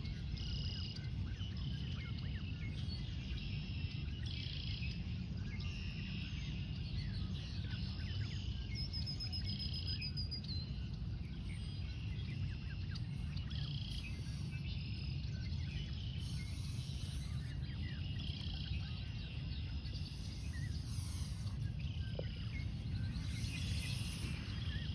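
Outdoor ambience of small birds chirping and calling again and again, one giving a short rapid trill, over a steady low rumble.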